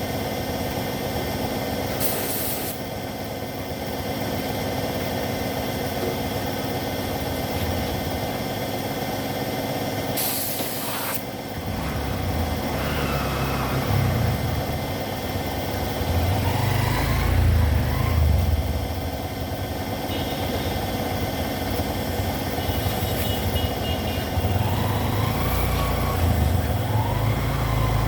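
Steady machine hum with two short hissing blasts of compressed air, about two seconds in and about ten seconds in. Uneven low engine rumble from vehicles comes in after about twelve seconds and swells several times.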